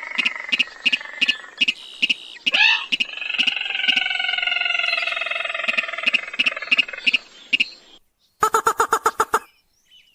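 Lure-call recording of a rail (sintar, or mandar padi): long drawn nasal calls with sharp clicks about three times a second over them, and a short rising squeal a little over two seconds in. Near the end comes a fast run of pulses lasting about a second.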